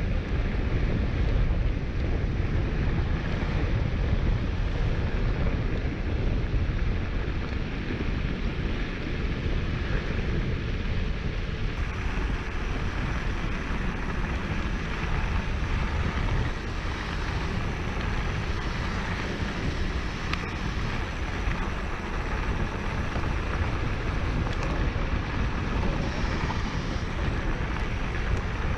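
Steady low wind rumble buffeting the microphone of a camera carried on a moving mountain bike, mixed with the rolling of tyres over a dirt trail.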